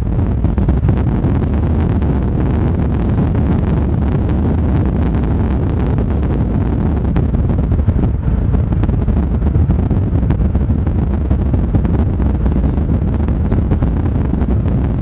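Strong storm wind near a tornado buffeting the microphone: a loud, steady low rumble with no let-up.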